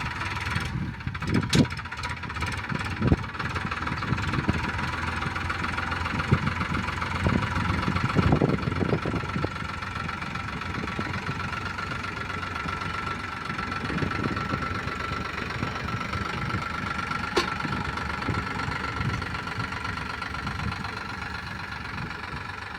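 Tractor engine running steadily, with a steady high whine over it. A few sharp knocks in the first few seconds, and one more about three-quarters of the way through.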